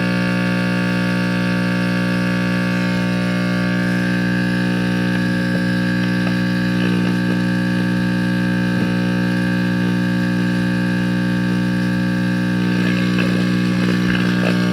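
1954 General Electric C407 tube radio's speaker giving out a loud, steady mains hum, the sign of bad electrolytic filter capacitors, with faint crackling creeping in near the end as a station tries to come through.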